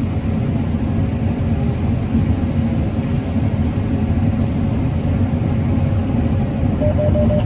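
Combine harvester running steadily while harvesting corn: an even, unbroken low rumble and hum of engine and machinery.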